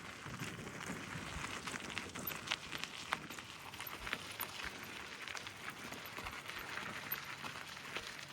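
Gravel bike tyres rolling over a wet, muddy gravel road: a steady crackle of grit with scattered sharp ticks.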